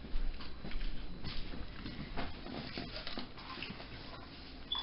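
Close chewing and mouth noises, soft irregular clicks and smacks, of a person eating a jalapeño popper.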